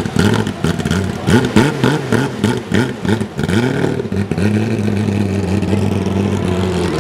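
Racing car engine revving in a quick series of short rises and falls with sharp crackling pops, then settling into a steady drone about four seconds in.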